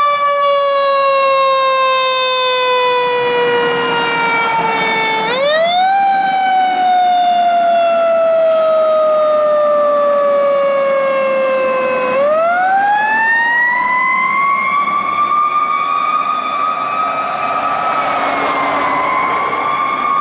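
Fire engine siren wailing loudly. Its pitch climbs quickly and then sinks slowly for several seconds, climbing again about five and about twelve seconds in. After the last climb it holds high and fairly steady, with a slight dip near the end.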